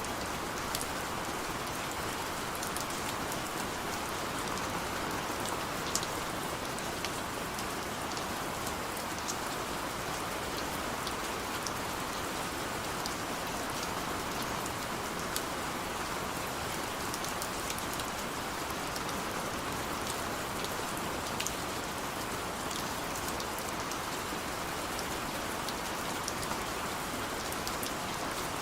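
Heavy rain falling steadily: a continuous hiss with many scattered sharp ticks of single drops striking close by.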